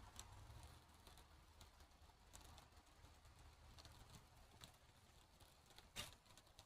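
Faint, sparse crackling of a small wood fire of birch bark and green wood, with one louder pop about six seconds in.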